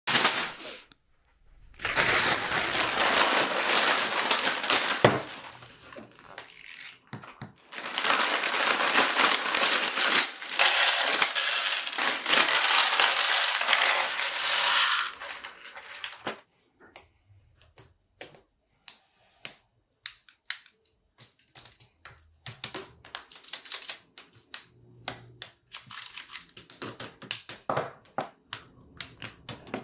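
Loose plastic building bricks rattling as hands rummage through a pile of them. About halfway through, this gives way to a run of separate sharp clicks as pieces are picked up and snapped together.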